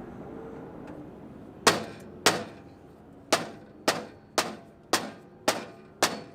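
A hammer striking metal eight times, each blow ringing briefly: two blows, a short pause, then six evenly spaced blows at about two a second, knocking at a stuck part that will not come out.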